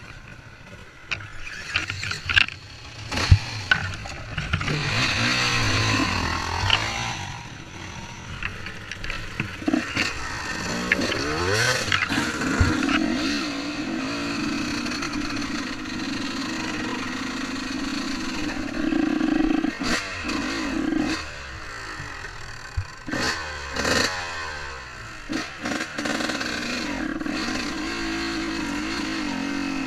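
Motocross bike engine running and revving, its pitch rising and falling in several stretches with steadier held spells between, plus scattered sharp knocks and clatter.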